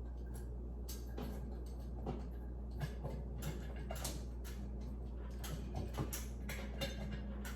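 Irregular small clicks, taps and rustles of hands working a chandelier's mounting screws and canopy against the ceiling fitting, over a steady low hum.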